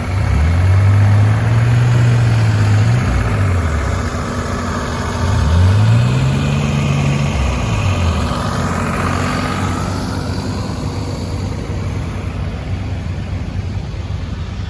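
Tractor engine running under way, its low note rising and then falling twice as the throttle is opened and eased off.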